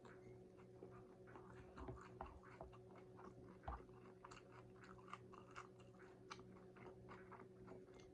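Close-miked chewing of a crunchy taco: soft crunches and mouth clicks in quick succession, with one louder crunch near the middle, over a faint steady hum.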